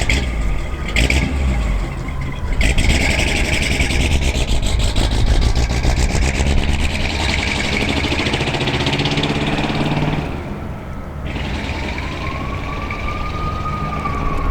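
Ford 8BA flathead V8 with tubular headers and full-length dual exhaust, running and revved: it climbs and holds higher for several seconds, then drops back toward idle about ten seconds in.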